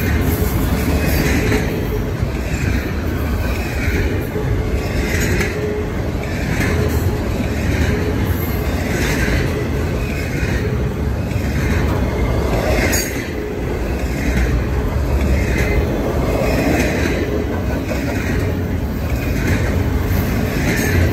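Double-stack intermodal freight cars rolling past: a steady, heavy rumble of steel wheels on rail, with a regular clatter about every second and a quarter. A faint steady whine runs through the first few seconds.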